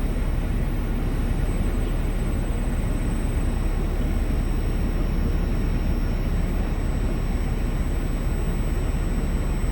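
Semi-truck running steadily: an even low rumble with no changes.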